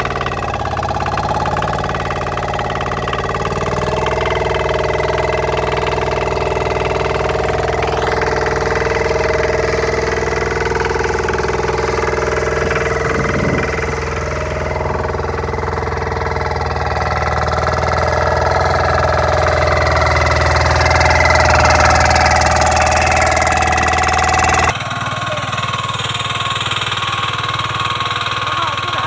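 Walk-behind tractor engines running steadily, the pitch shifting a little as the engine works. About 25 seconds in the sound changes abruptly to a different engine running.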